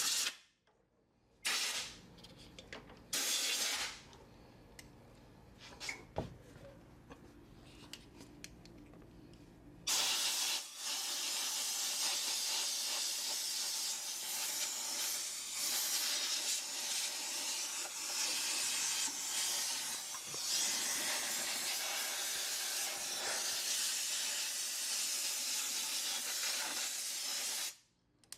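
Compressed air from an air-compressor blow nozzle hissing as it blows dust out of a refrigerator's condenser coil. A few short blasts come first, then a long, steady blast from about ten seconds in that cuts off shortly before the end.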